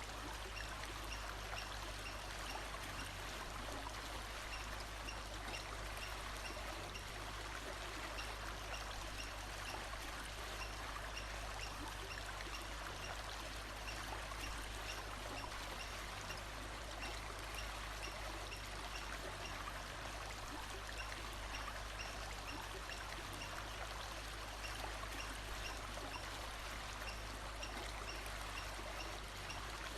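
Steady rushing of a flowing stream, with faint short high chirps repeating evenly about twice a second.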